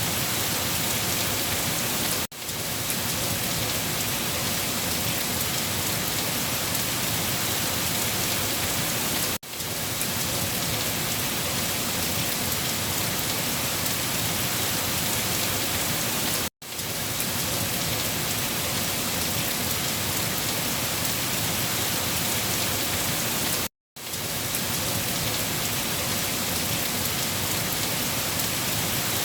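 Steady heavy rain falling, an even hiss with dense drops. It cuts out for a split second four times, about every seven seconds, where a short rain recording loops.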